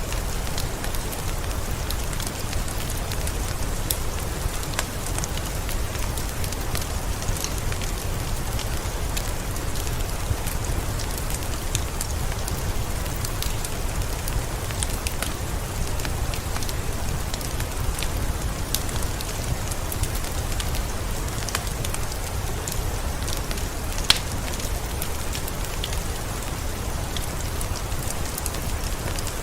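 Heavy rain falling steadily in a forest: a dense hiss with a low rumble beneath and scattered close drops ticking. One sharper, louder drop hits near the end.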